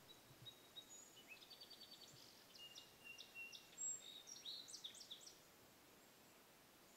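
Small songbirds singing faintly: thin, high whistled notes and a quick trill of short chirps, stopping about five seconds in over a faint outdoor background.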